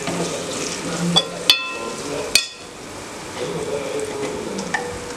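Onions, green chillies and raw mango pieces sizzling in oil in a metal pot while a steel ladle stirs them, with sharp clinks of the ladle against the pot; the one about one and a half seconds in rings briefly, and another comes about a second later.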